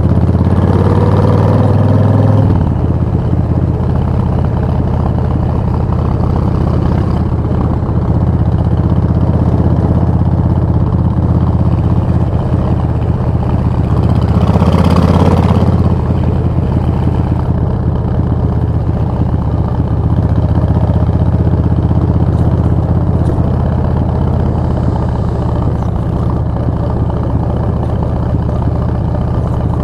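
Suzuki VS1400 Intruder's V-twin engine running steadily. The revs rise briefly in the first couple of seconds and then fall back, and a short swell of rushing noise comes about halfway through.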